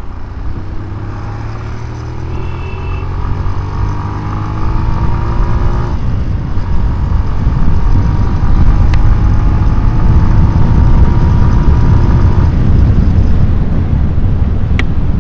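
Road traffic heard from a moving bicycle: the engines of passing motor vehicles drone with slowly rising pitch over a heavy rumble of wind on the microphone, which grows louder partway through.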